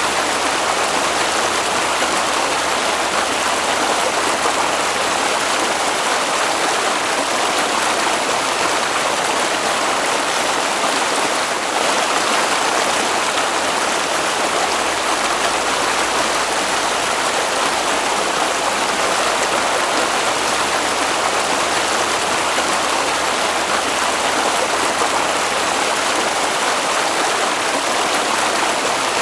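Water flowing in a stream, a steady rushing with no breaks.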